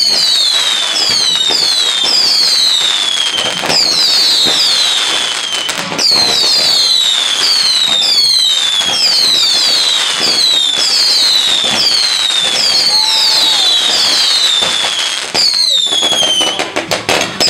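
Whistling firework, probably a multi-shot cake, firing a rapid string of shrill whistles, each falling in pitch and overlapping the next, over a background hiss and crackle. The whistles break off briefly near the end, then start again.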